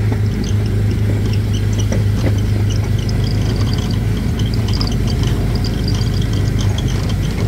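Small gasoline engine of a Disneyland Autopia car running at a steady low drone, with scattered short high chirps over it.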